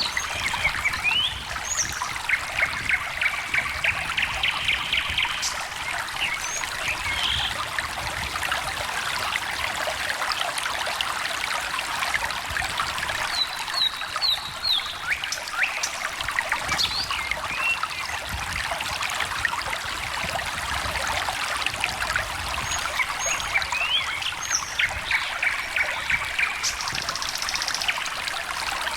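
A small stream trickling and splashing steadily, with birds singing over it: a fast trill twice, and scattered short chirps between.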